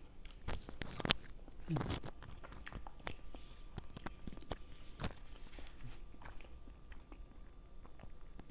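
Close-miked chewing and biting: wet mouth smacks and small clicks from a person eating, with a brief hum about two seconds in.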